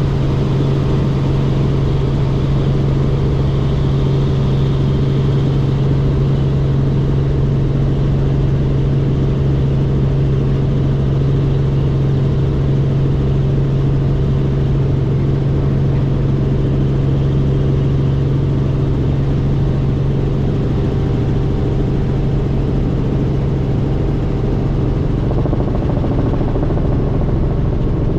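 Helicopter in cruising flight, heard from on board as a loud, steady droning hum of engine and rotors that holds without change.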